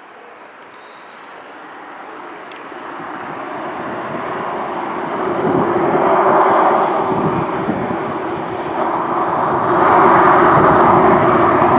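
Jet airliner's engines passing close, growing steadily louder over about six seconds and then staying loud, with a steady droning tone under the broad engine noise.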